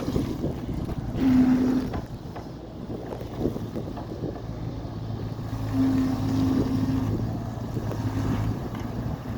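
Small diesel engine of a mini excavator running steadily, with wind buffeting the microphone. A brief higher steady hum comes in about a second in and again around six seconds.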